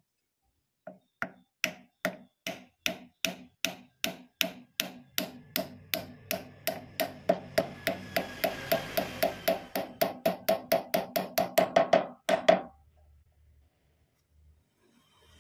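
A long run of sharp, hollow wooden knocks from a hand-turned wooden perkutut (zebra dove) sound piece. The knocks speed up steadily from about two a second to about five a second, like the accelerating call of a perkutut, then stop abruptly.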